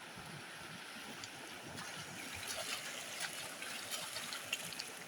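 Water trickling and splattering, with scattered small drips.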